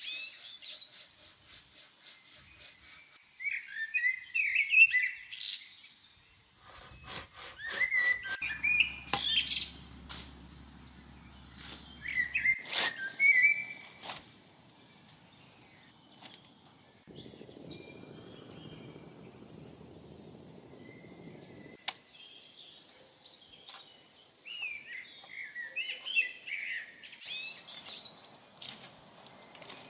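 Birds chirping and singing in short repeated bursts, with a quick run of clicks or taps about a quarter of the way in and a soft low rustling hiss in the background at times.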